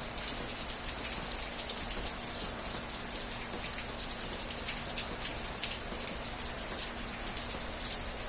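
Steady rain falling, with many scattered drops ticking close by.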